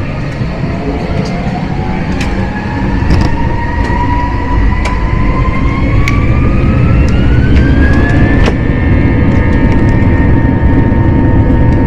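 Airbus A321-231's IAE V2500 jet engines spooling up, heard from inside the cabin: a whine rises steadily in pitch over about eight seconds and then holds, while the engine noise grows louder. The rise is typical of thrust being set for the takeoff roll. Scattered cabin rattles are heard through it.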